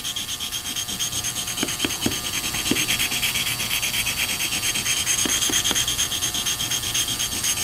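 Corvair rocker arm tip rubbed back and forth on a sharpening stone in quick, even scraping strokes, lapping flat the end that the valve stem has worn.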